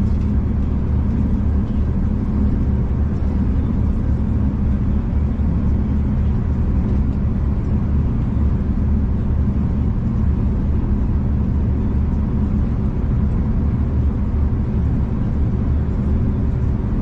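Steady low rumble of a moving passenger train, heard from inside the carriage, with no distinct knocks or changes.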